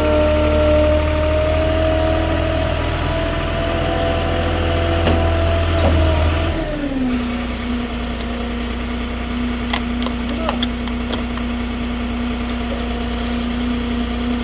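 Moffett truck-mounted forklift engine running at raised revs, then dropping back to a steady idle about six and a half seconds in. A few light clicks come around ten seconds in.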